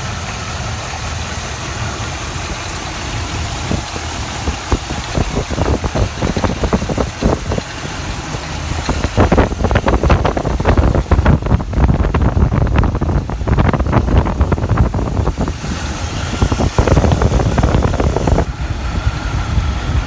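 1967 Buick Riviera's V8 engine idling after exhaust manifold repair. From about four seconds in an uneven run of knocks and heavier rumble builds over it, loudest in the middle, then eases off near the end.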